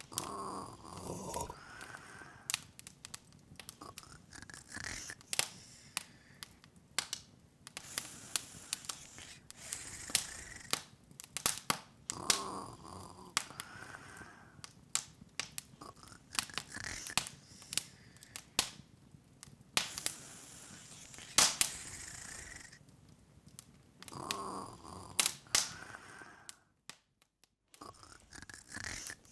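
Open fire crackling: irregular sharp pops and snaps, often several a second, over a soft hiss. The sound drops out for about a second near the end.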